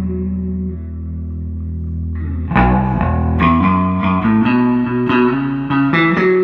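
Bass guitar played through a 1973 Fender Twin Reverb Silverface combo amp with 1978 CTS Fender Special Design speakers. A held note rings for the first couple of seconds, then a new run of plucked notes starts about two and a half seconds in.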